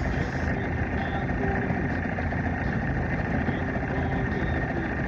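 Boat motor running steadily at trolling speed.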